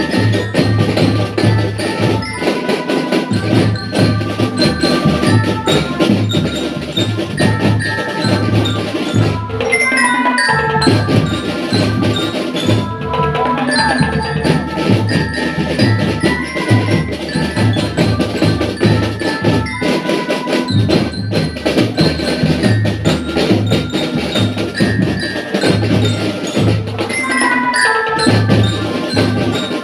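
A school drum band playing a marching tune: a bell-lyra (glockenspiel) melody over marching drums keeping a steady beat.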